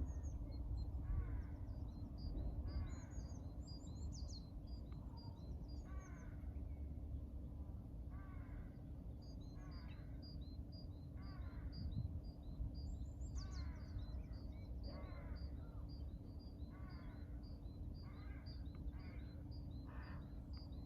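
Birdsong: one bird gives a harsh, repeated call about every second and a half, while a smaller bird chirps in rapid high-pitched runs, over a steady low background hum.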